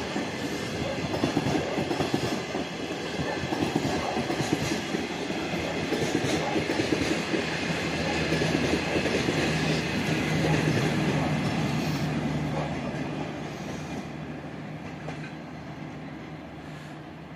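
Train running past on the track, wheels clattering over the rail joints with a steady low hum, then fading away over the last few seconds as it moves off.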